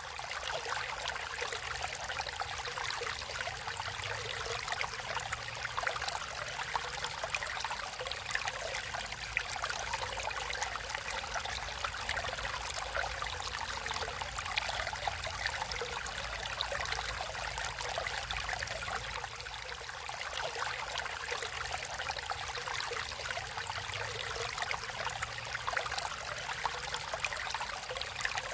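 Natural stream of water flowing steadily, a continuous trickling and splashing rush with no let-up.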